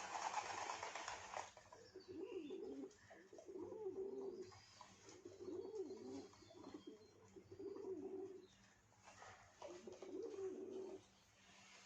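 Pigeon cooing, a run of low warbling coos about a second long each, repeated half a dozen times. A short rustling noise comes first.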